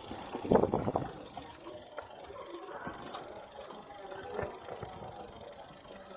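Street ambience in a busy city centre: a brief voice about half a second in, then faint voices of passers-by over low street noise.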